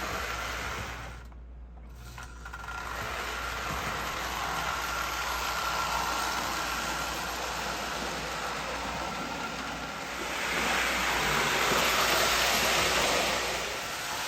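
Marx 999 toy electric steam locomotive pulling its freight cars around the track, the motor whirring and the wheels rattling on the rails. The sound almost stops about a second in, then runs on and is louder for a few seconds near the end.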